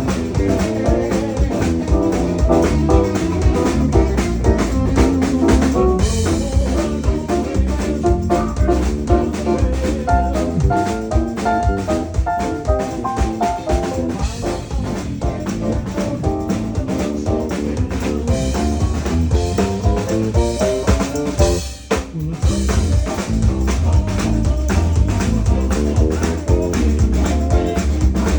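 Live band playing an instrumental passage, with drum kit and electric guitar over a steady beat. The music drops out briefly about three-quarters of the way through.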